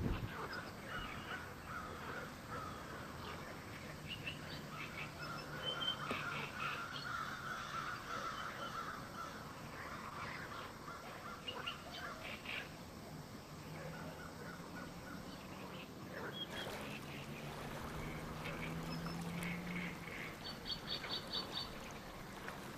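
Birds calling in short scattered calls over a faint steady outdoor background, with a quick run of rapid high chirps near the end. A faint low drone comes and goes underneath.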